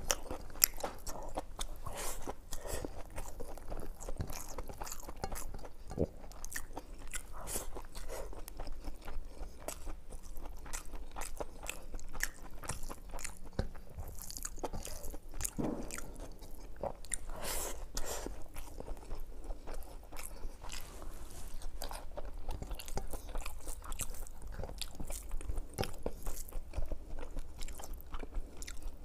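Close-miked eating sounds from a person chewing and biting spicy mutton curry, a steady run of short crunches and clicks. A steady low hum runs underneath.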